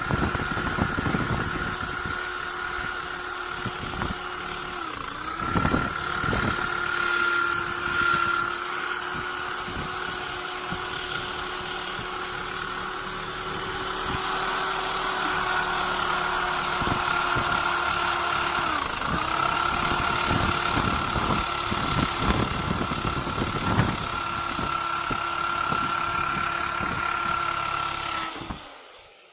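Electric drill spinning a wire brush, lightly scrubbing a steel van floor back to bare metal so the spot welds show. It runs at a steady pitch that sags briefly twice, then winds down and stops near the end.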